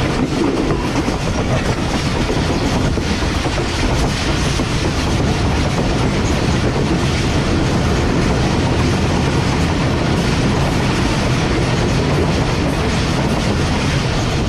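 Rehman Baba Express passenger train running along the track, heard from aboard: a steady rumble with a continuous fine clatter of wheels on rails.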